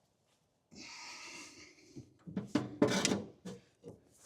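A steering rag joint being worked loose on its shaft: about a second of metal scraping, then a string of irregular knocks and clunks.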